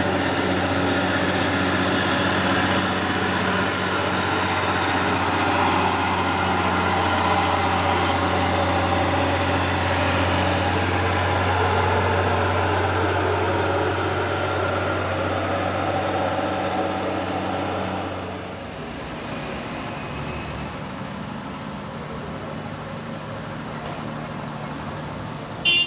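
Heavy diesel truck engine running steadily under load, with a thin high whine over it. About eighteen seconds in the engine eases off and the whine stops. There is a short loud knock right at the end.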